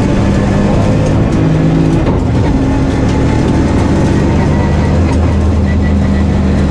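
Nissan 350Z rally car's 3.5-litre V6 running hard under load, heard loud from inside the cabin, with a shift up from third to fourth gear partway through.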